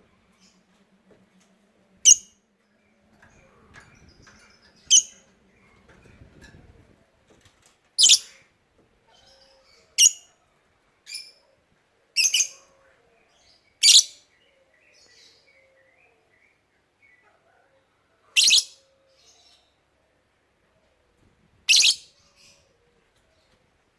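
Lovebird giving short, shrill chirps, one at a time every two to four seconds, about nine in all.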